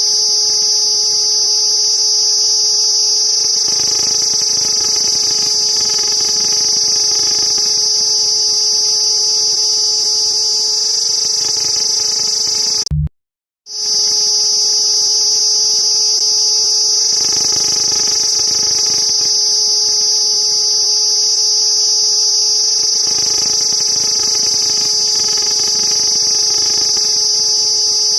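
Cicada buzzing in one continuous high-pitched drone, cutting out completely for under a second about halfway through.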